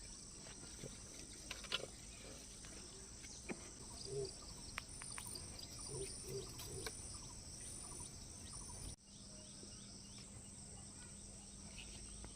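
Insects chirring steadily in a rural garden, with scattered small clicks and rustles of plants being handled; the background shifts abruptly about nine seconds in.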